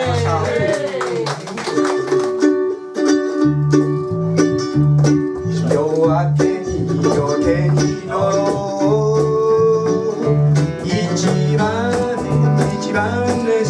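Live acoustic music: a song intro in a country or bluegrass style on plucked strings. A steady walking bass pulse comes in about three seconds in, with a bending melody line over it.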